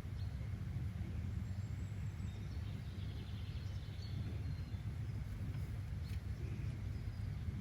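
Steady low rumbling outdoor background noise, with faint, sparse bird chirps about a third of the way through and again near the end.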